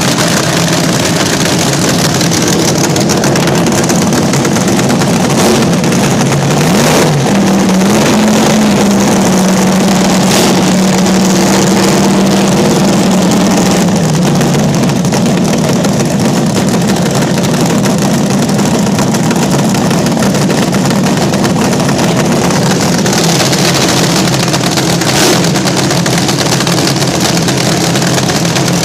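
Vintage slingshot drag racer's engine running very loud. It is revved up about seven seconds in, held high for several seconds, then drops back to a rough, fast idle, with a few sharp cracks along the way.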